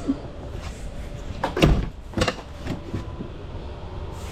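A few short clunks over a low rumble. The loudest comes about a second and a half in, with two weaker ones soon after.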